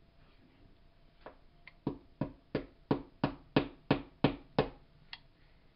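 A hammer tapping a part into a Crosman PowerMaster 760 BB gun during reassembly: about ten sharp knocks at roughly three a second, growing louder and then stopping.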